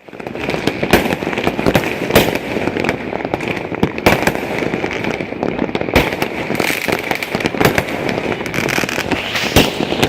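Many fireworks going off at once: a dense, continuous crackle of bursts, with louder bangs standing out every second or two.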